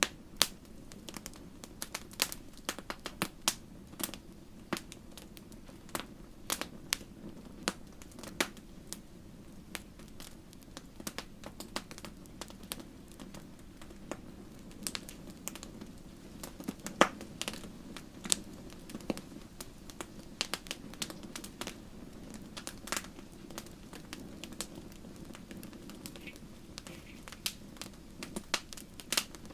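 Wood fire crackling in a fireplace: irregular sharp pops and snaps over a steady low rumble of the flames, with a louder pop about seventeen seconds in.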